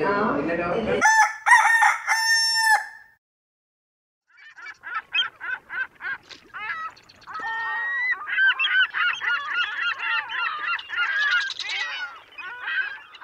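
A rooster crows in three short pitched notes, then after a brief pause a run of quick, busy bird chirps and trills.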